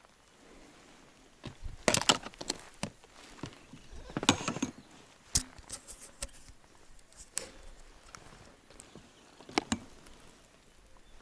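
Scattered sharp knocks and clatters in small irregular clusters, the loudest about two and four seconds in.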